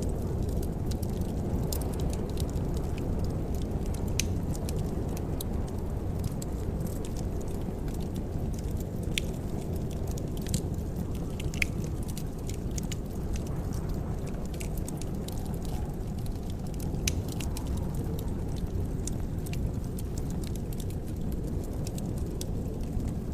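Fireplace fire crackling: scattered sharp snaps and pops over a steady low rumble.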